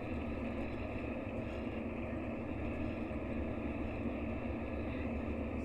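Mercedes-Benz O-500RSD coach's diesel engine running with a steady drone.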